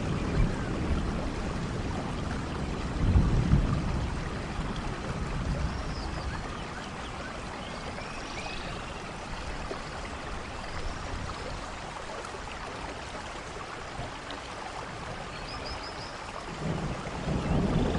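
Steady rain falling, with low thunder rumbles: one about three seconds in and another building near the end.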